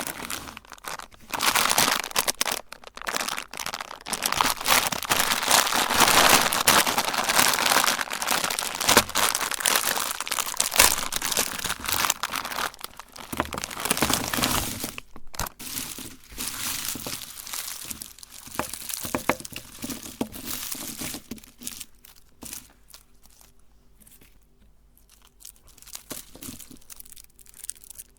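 Candy crushed in a meat grinder: dense crunching and crackling, loudest through the first half and thinning to scattered crackles later.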